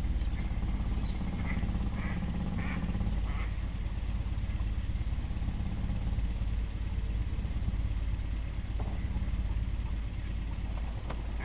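Boat engine idling in neutral with a steady low hum. A duck quacks about four times in the first few seconds.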